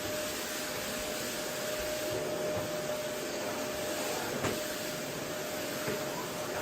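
Household vacuum cleaner running steadily, a constant rushing noise with a steady whine through it; a small knock sounds about four and a half seconds in.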